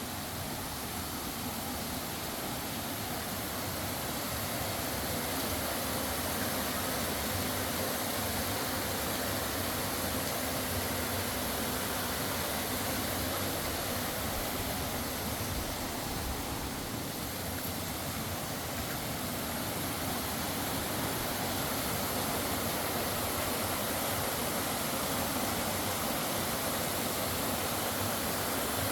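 Byeongpung Falls, a waterfall, pouring steadily with an even rushing noise. A thin, high steady whine sits above it.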